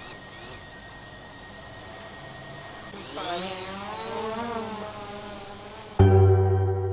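Quadcopter drone's motors and propellers whining steadily, then rising and wavering in pitch about three seconds in as the motors speed up for take-off. Music with low piano notes cuts in suddenly near the end.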